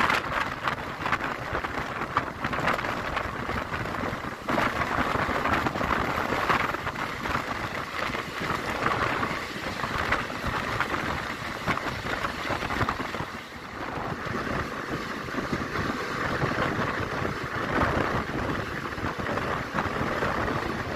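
Passenger train coach running at speed: a steady rush of wheels on the track and air past the open coach side, with a brief easing about thirteen seconds in.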